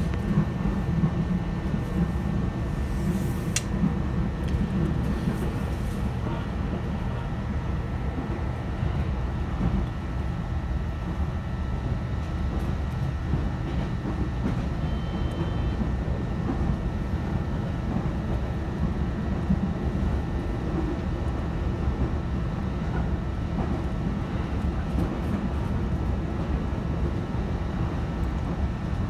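E129-series electric train running between stations, heard from inside the carriage: a steady rumble of wheels on rail with a faint, thin steady whine above it.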